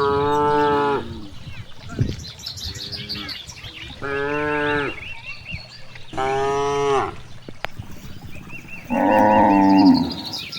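Cattle mooing repeatedly: four loud moos of about a second each, spaced two to three seconds apart, with a fainter moo between the first two.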